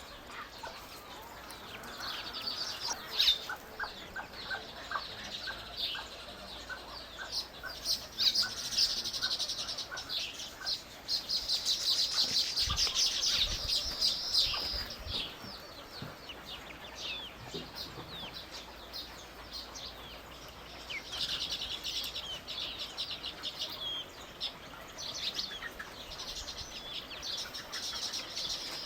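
Small songbirds chirping and twittering in high, fast bursts. A string of lower, evenly spaced notes, about two a second, runs through the first few seconds.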